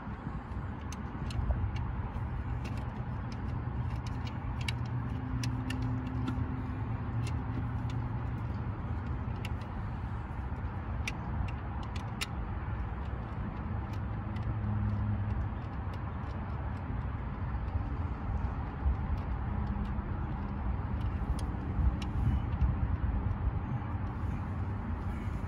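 Steady low rumble of a motor vehicle engine running nearby, with scattered light clicks of hand tools working at the distributor.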